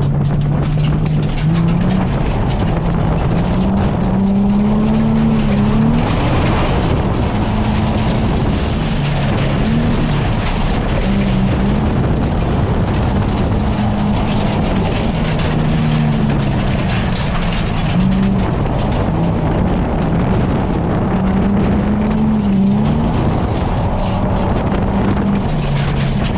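Nissan 350Z's 3.5-litre V6 heard from inside the cabin, drifting uphill with the revs rising and falling again and again, over steady tyre and road noise. The tyres are spinning on a damp, slippery surface.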